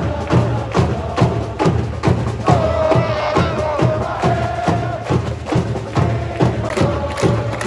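Supporters' drums beating a steady rhythm, about three strikes a second, under a crowd of fans chanting together in the stands.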